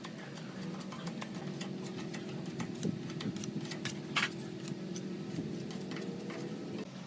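A small motor running steadily with scattered clicks and ticks. A louder click comes about four seconds in, and near the end a faint rising tone stops abruptly.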